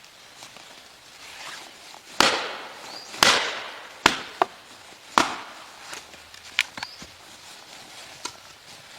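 Four loud, sharp wooden cracks about a second apart, the first two trailing off in a brief crackle, followed by a few lighter knocks and clicks.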